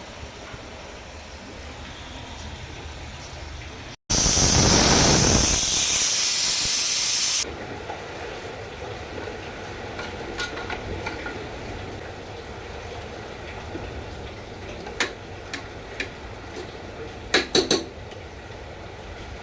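Steady hiss of rain and rushing water. After an abrupt cut about four seconds in comes a much louder rush for about three seconds, which stops suddenly, and a few sharp clicks follow near the end.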